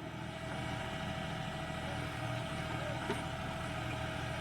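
Tractor diesel engine running steadily at an even pitch.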